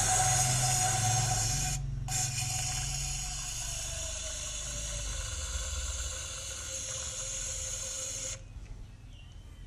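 Aerosol can of engine conditioner spraying with a steady hiss and a thin whistle that sinks slightly. The hiss breaks off for a moment about two seconds in and stops suddenly near the end, over the Toyota Yaris engine idling.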